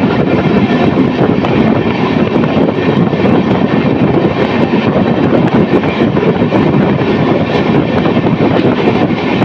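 Loud, steady rush of wind and rolling wheel noise from a passenger train running at speed, heard from an open coach doorway.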